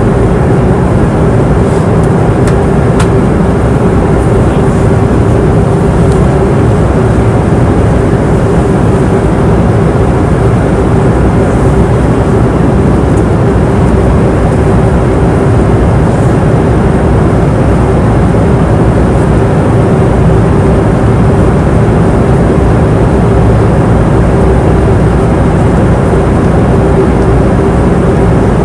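Passenger airplane cabin noise in flight: a steady, loud rush of engine and airflow, heavy and low, with a steady hum held in the middle.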